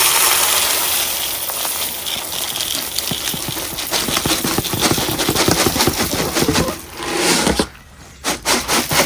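Dry chicken feed being poured into a container or feeder, a dense rattle of grains that stops near the end, followed by a brief second pour.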